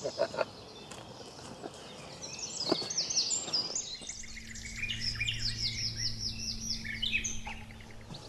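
Songbirds singing, with many quick, repeated high chirps. A steady low hum joins about halfway through and cuts off near the end.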